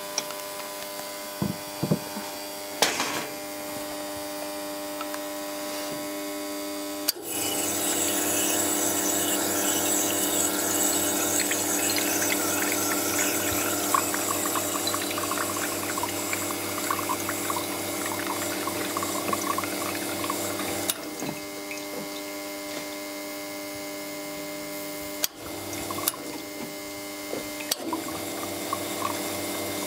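Iberital L'Anna espresso machine's pump running with a steady hum while water flows, switched up and down with sharp clicks, getting louder and hissier for about fourteen seconds before settling back to a lower hum.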